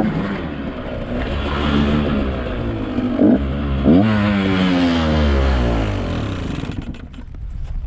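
125 cc motocross bike engine revving up and down with two sharp throttle blips, then fading and cutting out near the end. The engine is starving for fuel because the fuel petcock was never turned on.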